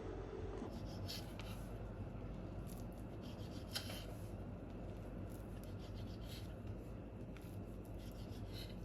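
Light rubbing and scattered small clicks of objects being handled, over a low steady hum, with one sharper click about four seconds in.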